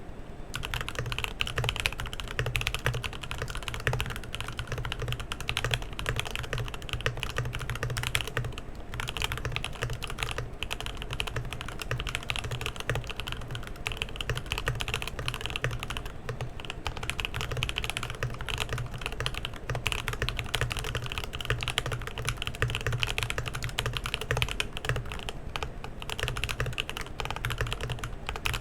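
Continuous fast typing on a Monsgeek M1 mechanical keyboard fitted with lubed C³Equalz Banana Split switches, an aluminum plate and lubed TX stabilizers: a dense run of keystroke clacks with no pauses.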